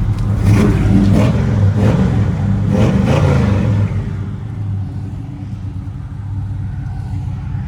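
Numbers-matching 402 big-block V8 of a 1972 Chevrolet El Camino SS running, louder and busier for the first four seconds, then settling into a steady, even idle.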